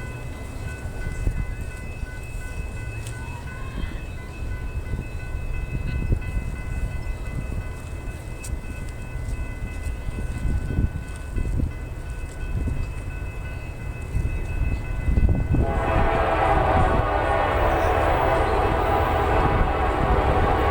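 Low rumble of a Norfolk Southern GE C44-9W diesel locomotive approaching with its stack train, under a steady high-pitched ringing. About three-quarters of the way in, the locomotive's horn starts blowing loudly and keeps sounding.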